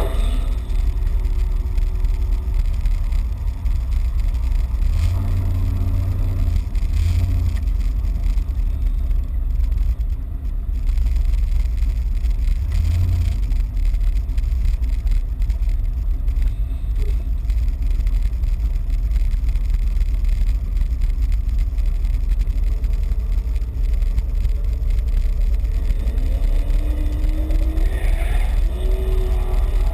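Turbocharged 408 LSX V8 in an S-10 pickup, heard from inside the cab, running with a heavy, steady low rumble; a few seconds before the end the engine pitch rises as it is revved.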